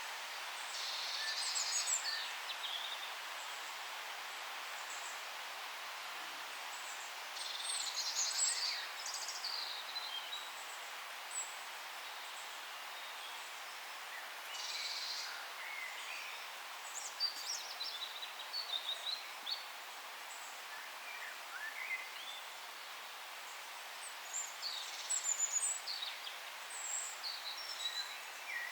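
Several songbirds singing and chirping in a forest: short bursts of high twittering song and scattered single chirps come and go, over a steady soft hiss of ambient background noise.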